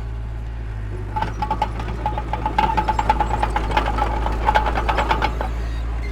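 Heavy diesel earthmoving machine running with a steady low drone. From about a second in until near the end there is a run of rapid metallic clanking with a whining tone.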